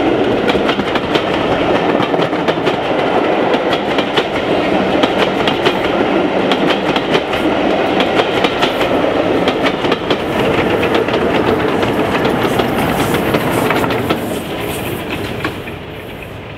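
A heritage passenger train passing close by, its coach wheels clicking rapidly over the rail joints, with a group of BR Class 14 diesel locomotives at the tail of the train. The sound fades away near the end as the train moves off.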